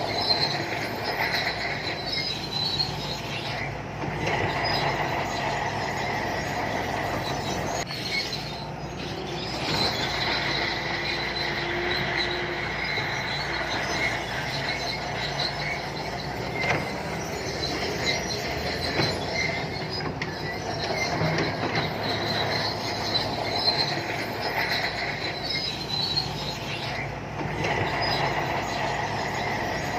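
Shantui crawler bulldozer working: its diesel engine runs steadily under a high-pitched squeal and clank from the steel tracks, the squeal rising and fading several times.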